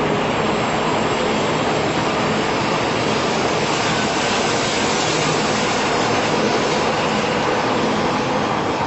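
Shinkansen bullet train running at speed: a loud, steady rushing noise with a faint low hum beneath it.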